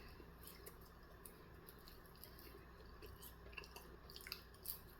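Faint chewing with small wet mouth clicks, over a low steady hum; the clicks come more often in the second half.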